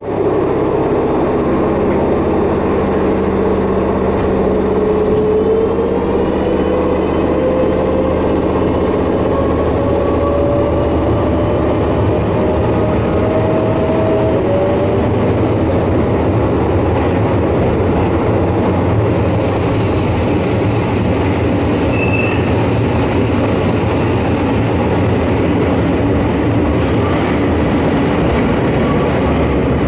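Kobe Electric Railway train running in a tunnel, with a steady rumble of wheels and running gear. Over the first fifteen seconds or so a motor whine rises slowly in pitch as the train picks up speed. From about twenty seconds in, a hiss of wheels on rail comes up, with a few brief high squeals.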